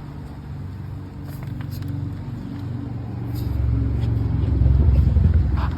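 An engine running steadily with a low hum, growing louder over the last couple of seconds and then easing off.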